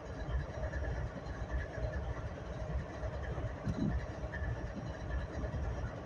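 Steady low rumble of an idling engine, with a brief knock a little under four seconds in.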